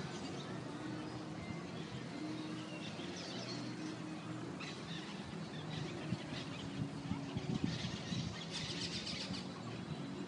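Birds chirping here and there over a steady outdoor background hiss, with a brief denser run of chirps near the end.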